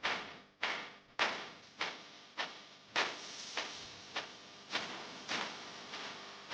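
Footsteps at a steady walking pace: a short noisy crunch about every 0.6 seconds, each fading quickly.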